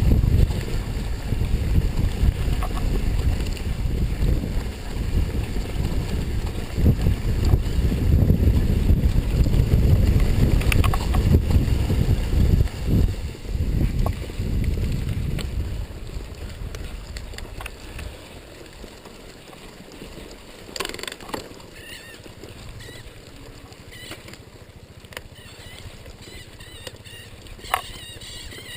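Wind buffeting the microphone over the rumble and rattle of a mountain bike riding a dirt trail: loud for the first half, then easing off about 16 seconds in, with a few sharp clicks later on.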